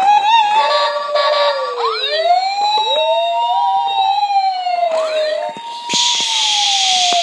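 Electronic siren sound effect from a battery-powered Wolvol toy fire engine, wailing up and down over and over. A steady hiss joins in about six seconds in.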